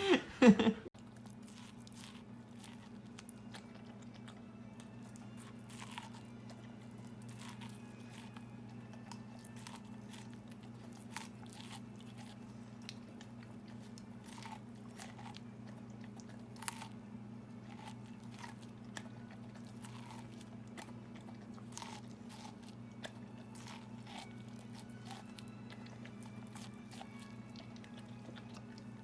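A puppy chewing and crunching on something hard, in scattered crisp crunches over a steady low hum.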